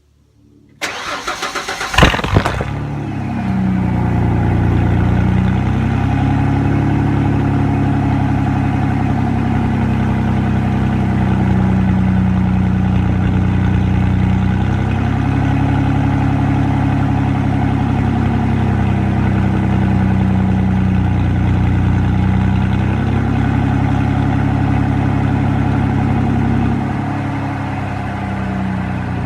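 Straight-piped Ford F-150's fuel-injected six-cylinder engine cranked on the starter for about a second, catching with a loud burst. It then settles into a steady, loud idle whose speed slowly rises and falls a few times.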